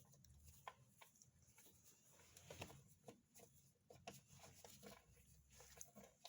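Near silence with faint, scattered light clicks and rubbing, with a small cluster of taps a little over halfway through, typical of hand tools and screws being handled while reassembling the engine's intake.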